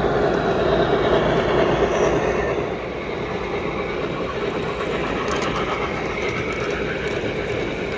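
O-gauge model train running on a layout's track, loudest in the first two to three seconds as it passes close, then a little quieter.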